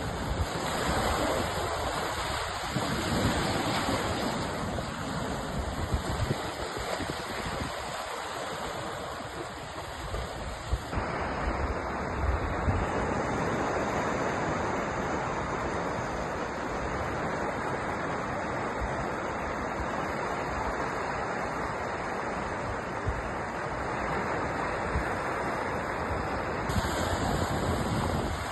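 Sea waves washing ashore: a steady, dense rushing noise with small surges, whose tone shifts abruptly about a third of the way in and again near the end.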